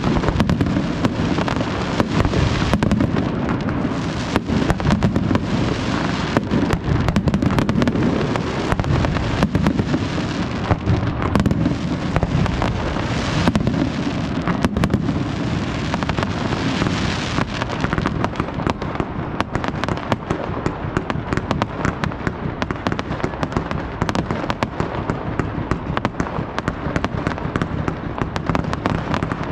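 Fireworks display: aerial shells and fountains going off in quick succession, a dense rattle of bangs and crackle that eases slightly after about 18 seconds.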